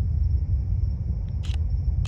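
Distant low rumble of a Falcon 9's nine Merlin first-stage engines in climb, steady, with two short sharp clicks near the end.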